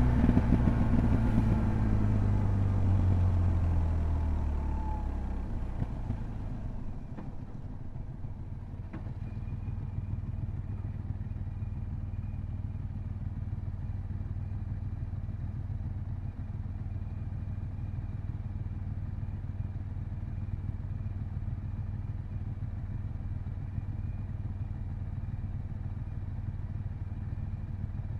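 BMW R1200GS boxer twin engine and wind noise falling away as the bike slows down, engine pitch dropping over the first few seconds, then the engine idling steadily with the bike at a standstill.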